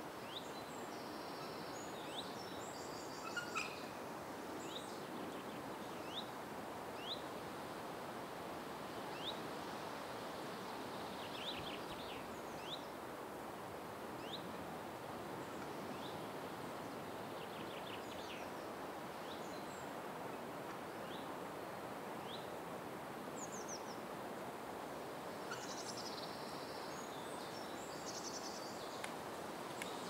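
Forest birds calling over a steady rushing background noise: one bird repeats a short high chirp about once a second, with bursts of higher, faster twittering near the start and again near the end.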